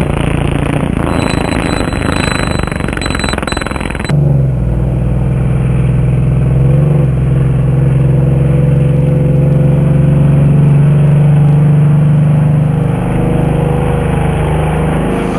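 Racing sidecar outfit engines running hard as the outfits pass on the track. The first few seconds are a dense, rattling engine noise. About four seconds in it changes abruptly to one long, steady engine note held at high revs.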